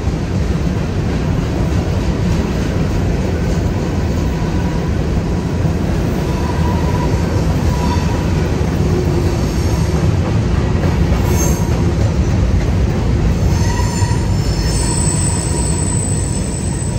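Freight train's covered hopper cars rolling past, a steady loud rumble of steel wheels on rail. Short squeals come from the wheels midway, and a high-pitched wheel squeal sets in for the last few seconds.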